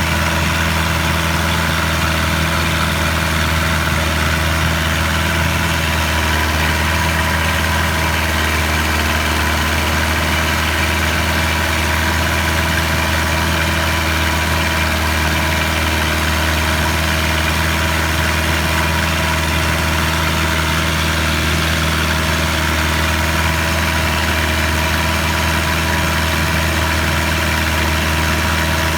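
A boat's engine running at a steady speed, an even, unbroken drone.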